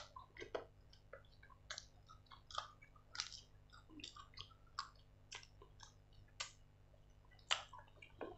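Close-miked chewing of grilled chicken, with irregular wet lip smacks and clicks about one or two a second. One louder smack comes near the end.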